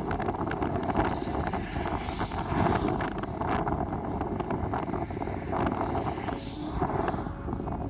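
Strong wind buffeting the microphone: a steady rushing rumble with scattered crackles.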